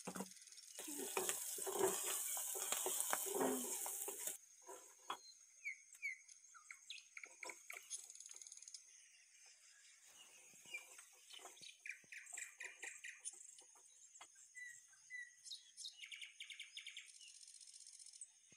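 Lamtoro stir-fry sizzling in the pan for about three seconds, then birds chirping with scattered light clicks.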